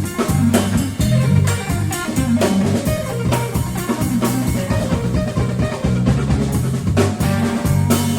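A rock band jamming instrumentally: drum kit with rimshots keeping a steady beat under electric guitar and a prominent bass line.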